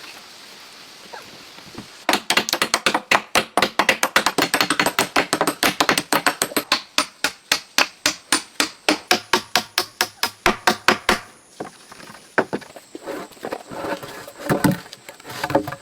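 A tool striking wood in a quick, steady run of blows, about four a second, stopping abruptly after some nine seconds; softer, scattered knocks follow.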